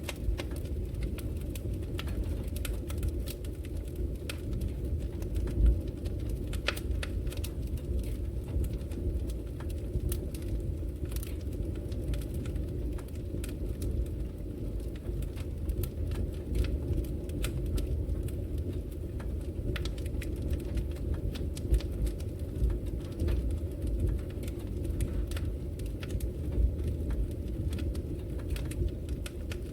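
Logs burning in a wood fireplace: a steady low rumble of the flames with frequent, irregular sharp crackles and pops from the wood.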